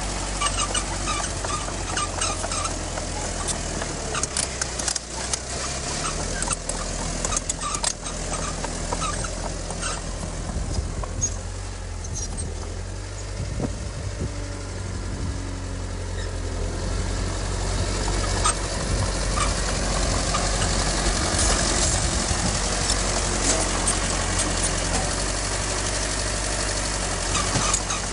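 Heavy diesel earthmoving machinery running steadily, with scattered metallic clanks and knocks, growing louder about two-thirds of the way through.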